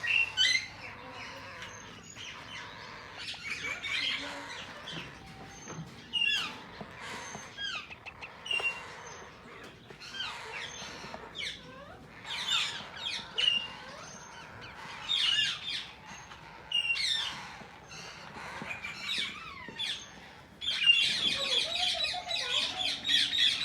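Parakeets chirping and squawking in short, sweeping calls, a second or so apart. About three-quarters of the way through, a loud, continuous run of rapid squawks begins.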